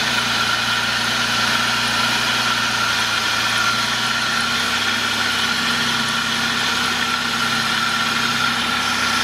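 Car engine idling steadily, with an even hum and no change in speed.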